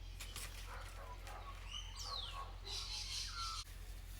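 Faint bird calls, one a short call falling in pitch about two seconds in, over a steady low hum.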